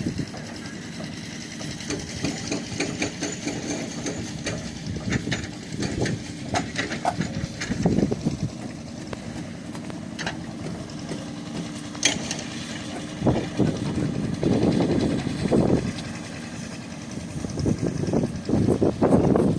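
Construction-site ambience: an engine runs steadily under scattered clicks and knocks, with louder rough stretches about two-thirds of the way through and near the end.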